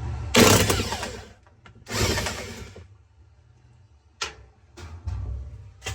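Power driver with a 7/16 socket running in two short bursts, each about a second long, taking out the agitator bolt of a washing machine. A sharp click follows a little past four seconds.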